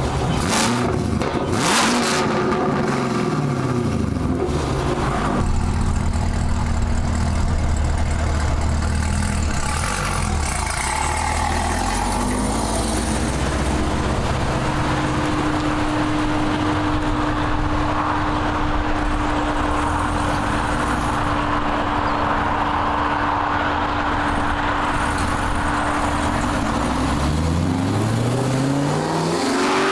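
Straight-piped 2022 Chevrolet Camaro ZL1's supercharged 6.2-litre V8, running on 2-inch long-tube headers with no mufflers, being driven and revved. The pitch rises and falls early on, settles into a steady run with a held whine through the middle, then climbs again near the end as it accelerates.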